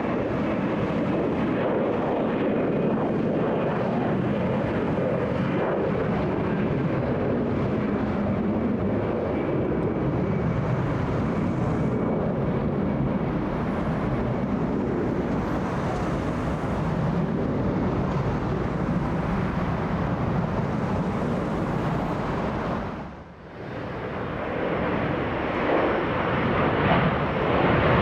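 Jet airliner engines running with a steady rumble. The sound drops away briefly about three quarters of the way through, then builds louder again toward the end.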